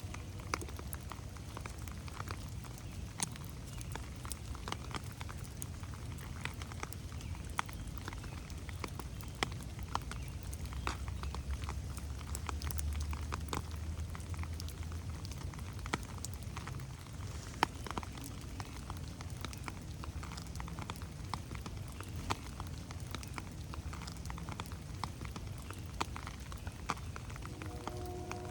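Steady rain falling in a forest, with many individual drops ticking irregularly over a soft hiss and a low, steady rumble underneath.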